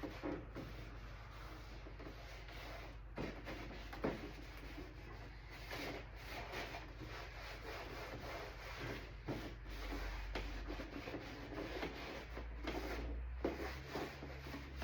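A rag scrubbing and wiping a plastic door panel to remove dirt and plastic shavings: an uneven scratchy rubbing with a few light knocks.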